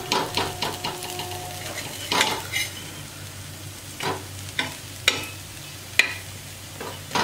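Colocasia (arbi) patties shallow-frying in a little oil on a tawa, sizzling steadily, while a steel spatula scrapes and knocks against the tawa several times as they are turned.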